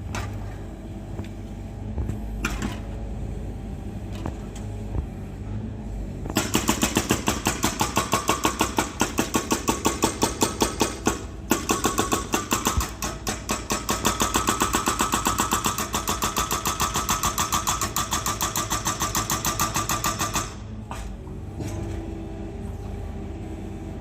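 Excavator engine running steadily. About six seconds in, a loud, fast, even pounding starts at about five strokes a second and lasts roughly fourteen seconds before stopping, leaving the engine running.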